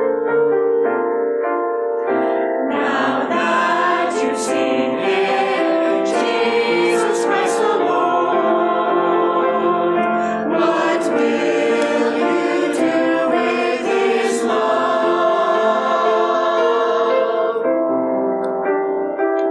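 Church choir singing a Christmas anthem with piano accompaniment.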